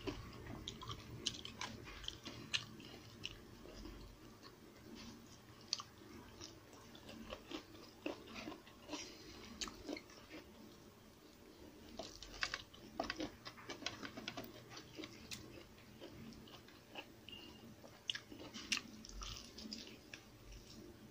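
Close-up eating sounds: faint chewing with scattered crisp, crunchy clicks, a cluster of them near the end as crispy fried pork belly is bitten.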